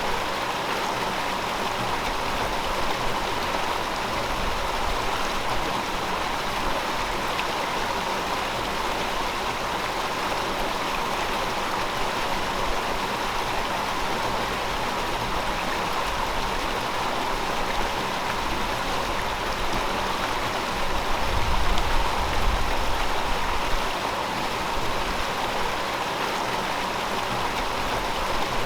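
River water flowing steadily over rocks, a continuous rushing babble. A low rumble swells for a few seconds about two-thirds of the way through.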